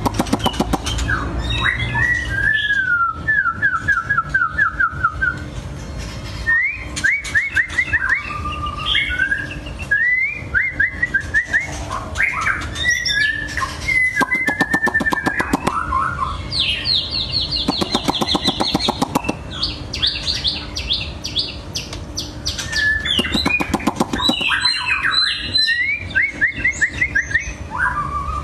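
White-rumped shama singing: a long run of varied, clear whistled phrases, with rapid series of repeated notes and trills and several stretches of fast clicking rattles in between.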